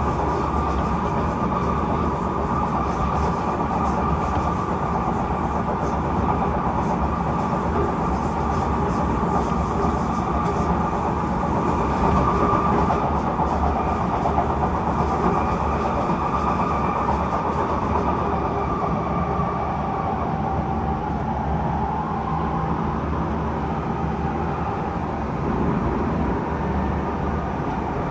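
Kawasaki C151 metro train running along the line, heard from inside the carriage: a steady rumble of wheels on rail with a higher whine over it that fades out about two-thirds of the way through.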